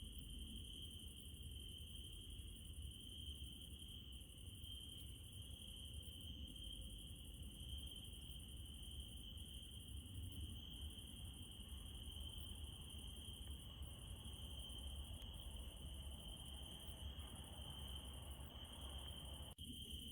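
Crickets trilling steadily at night, one continuous high-pitched chirring with fainter insect hiss above it and a low rumble beneath. The sound cuts out for an instant near the end.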